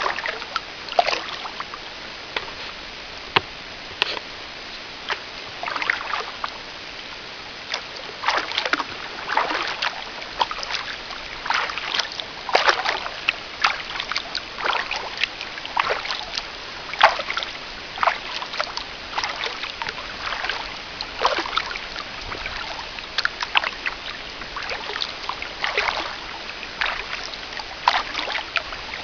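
Kayak paddle blades dipping and splashing in the water, stroke after stroke, about one splash a second, over a steady hiss.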